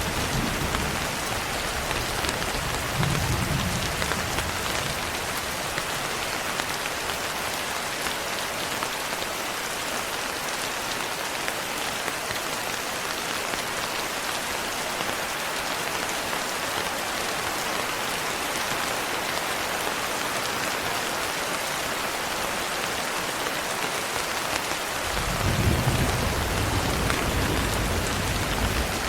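Steady, dense rain falling, with low rumbles of distant thunder about three seconds in and again from about 25 seconds to near the end.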